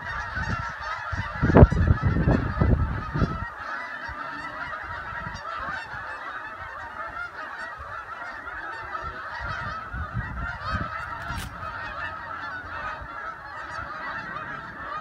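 A large flock of geese honking continuously in flight, many calls overlapping at once. Low rumbling gusts of wind hit the microphone during the first few seconds.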